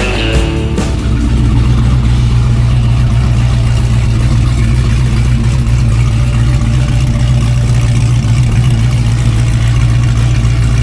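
A truck engine running at a steady idle with a loud, deep, even rumble, starting about a second in as the music drops out.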